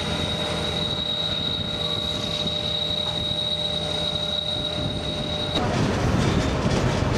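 Alaska Railroad passenger train running, heard from aboard: a steady low rumble from the diesel locomotives and cars, with a thin, steady high whine over it. About five and a half seconds in, the sound turns louder and rougher.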